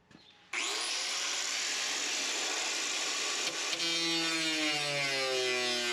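A power cutting tool starts about half a second in and runs steadily with a hissing whine as a rusted car body panel is cut out. Near the end a lower, wavering hum joins it.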